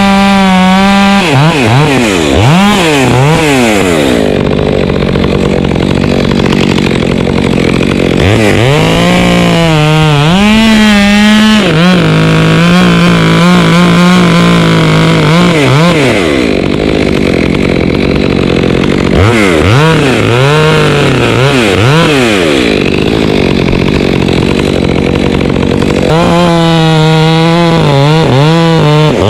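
Petrol chainsaw cutting through mango tree limbs: the engine is revved again and again between idle and full throttle, held wide open for several seconds at a time while cutting, its pitch sagging slightly under load in the middle.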